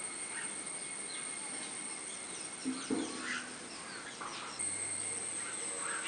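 Birds chirping: short, scattered call notes, many of them falling in pitch, over a steady high-pitched whine that grows louder about four and a half seconds in. A brief low thud comes about three seconds in.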